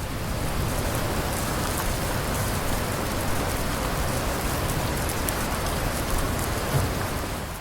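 Steady rain falling, with scattered drops ticking through it.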